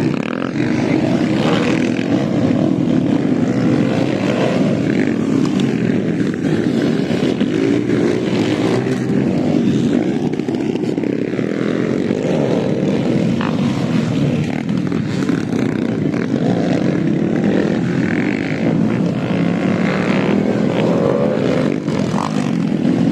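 Several motocross bike engines running and revving together, their pitch wavering up and down as the riders accelerate around the track.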